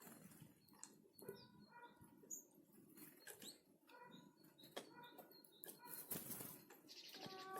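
Small forest birds at a winter feeding spot: wings fluttering, quick sharp taps and short high chirps, faint. A steady pitched note with overtones starts near the end.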